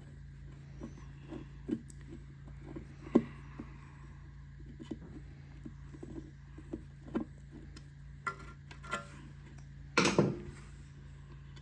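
A screwdriver working the mounting screws out of a small engine's carburetor: scattered small clicks and scrapes of metal, with a louder brief clatter about ten seconds in, over a steady low hum.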